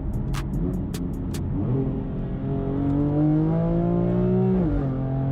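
Car engine accelerating under load, its pitch rising steadily for about three seconds, then dropping sharply at a gear upshift near the end before pulling again. A few sharp clicks come in the first second and a half.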